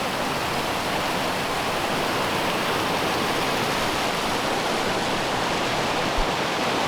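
Steady, even rush of Multnomah Falls pouring over its upper drop. A small low thump comes about six seconds in.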